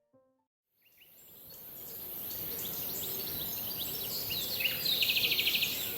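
The last notes of a piano piece end. After a short gap, birdsong ambience fades in over about a second: many short chirps over a steady high hiss, with a rapid trill of about ten notes about five seconds in.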